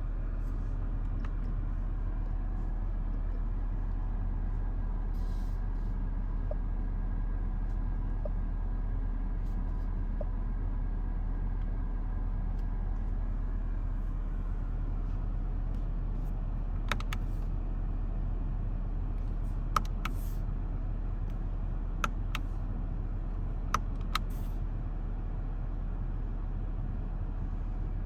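Steady low rumble of a 2023 BMW X7 40i, with its 3.0-litre inline-six, running, and a few sharp clicks in the second half.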